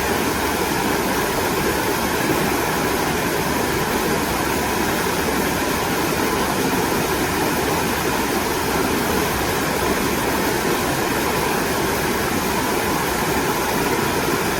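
Mountain valley stream rushing steadily over rocks, a constant full water noise without breaks.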